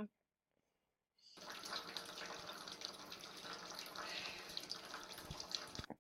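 Steady running water, starting about a second in after a short silence.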